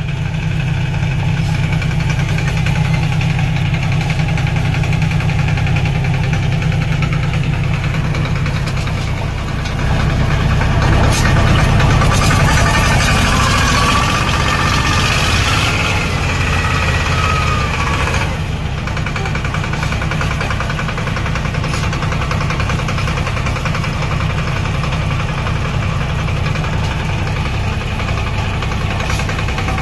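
Tractor engine running steadily under load, growing louder and rougher for several seconds in the middle before settling back.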